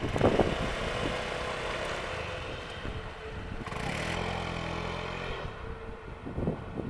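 Steady rolling rumble of a passing train at a railway level crossing, in a lull between bursts of wheel clatter over the rail joints. A low engine-like hum comes in about four seconds in and fades a second or so later.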